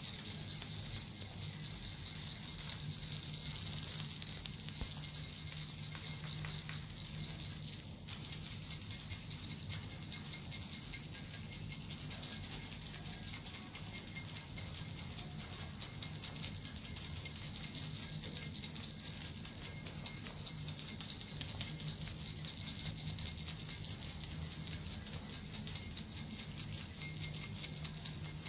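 Small Japanese suzu bells shaken continuously in a steady, dense jingle, along with a metal rattle. It eases off briefly about ten seconds in, then carries on.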